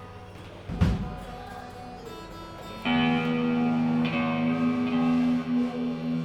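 Electric guitar through effects between songs: a single low thump a little under a second in, then a held note or chord rings out steadily from about three seconds in.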